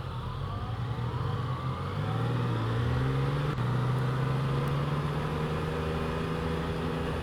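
Motorcycle engine pulling away and accelerating, its pitch rising, dropping at a gear change about two seconds in, then rising again and settling into a steady run.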